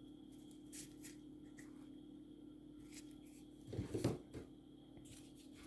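Faint handling sounds of fireworks being picked up and set down: light taps and rustles, with a louder cluster of knocks and rustling about four seconds in, over a low steady hum.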